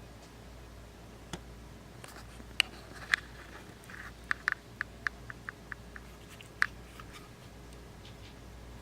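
Sharp small plastic clicks and taps from a cheap handheld fan being handled, including a quick even run of about eight clicks in the middle, over a faint steady hum.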